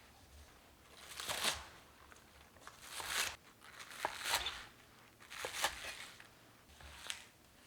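Crinkling, rustling handling noise in about five short bursts a second or so apart, like material being crumpled or gathered by hand.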